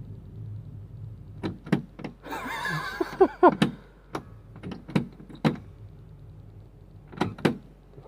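Clicks and knocks of a key being worked in a motorhome's frozen ignition switch, with a short rattling scrape about two seconds in. The engine does not crank, because the batteries are dead.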